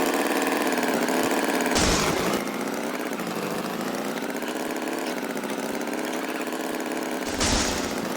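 An engine running steadily, with two short louder bursts of noise, one about two seconds in and one near the end.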